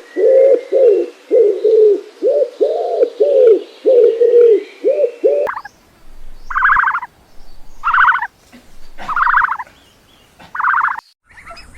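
Animal calls from two clips. First comes a quick run of about ten short, low, arched calls. After a sudden cut, a different animal gives four higher calls about a second and a half apart.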